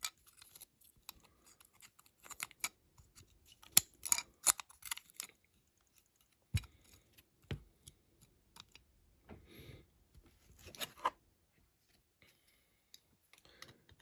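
Scattered small clicks and taps of diecast model parts being handled and fitted together by hand, with two duller knocks around the middle, as the wheels and axles go back onto the base plate.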